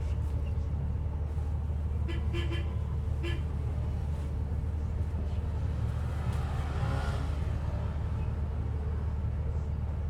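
Ride inside a city bus under way: steady low engine and road rumble with a faint steady hum. A swell of hissing noise rises and fades about seven seconds in.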